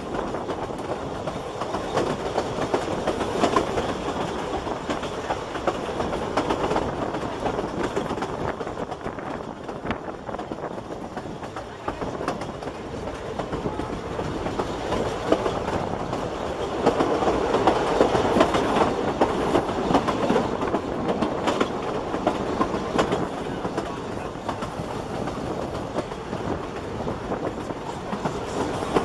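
Ffestiniog Railway narrow-gauge carriage running along the track, heard from a carriage window: a steady rumble of wheels on rail with the clickety-clack of rail joints, growing louder for a few seconds past the middle.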